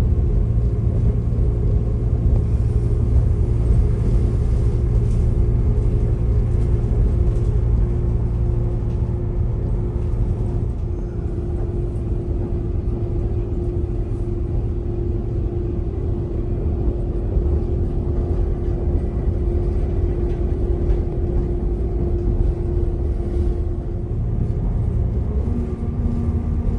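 Passenger train running, heard from inside the carriage: a steady low rumble of wheels and running gear with a constant hum over it. Near the end the hum shifts to a lower note.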